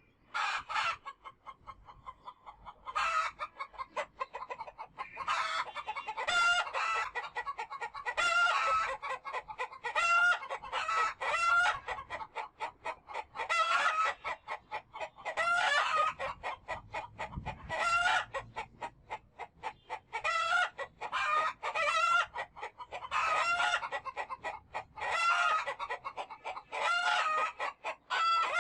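Chickens clucking and crowing, pitched calls repeating every second or two.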